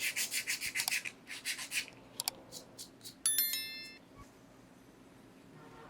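Rapid back-and-forth scraping strokes on a small rusty model car part, then a few light clicks and a small metal piece ringing briefly a little after three seconds in.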